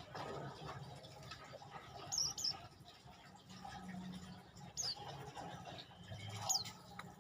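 Prenjak lumut songbird giving a few short, high chirps that sweep downward, about four in all, spaced a second or two apart, over a faint low hum.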